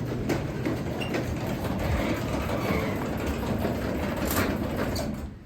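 Craftsman 3/4 hp DC belt-drive garage door opener running the door, a steady rumble with scattered clicks and rattles, stopping about five seconds in.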